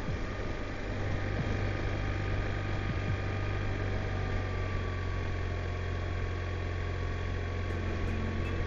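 BMW touring motorcycle engine running steadily, heard from the bike itself with road and wind noise.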